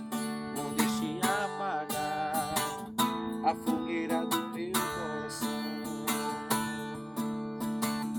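Acoustic guitar strummed in a steady rhythm, playing the instrumental ending of a song after the last sung line. Each stroke rings into the next, with a brief wavering melodic line twice in the middle, and a final strum at the very end rings out.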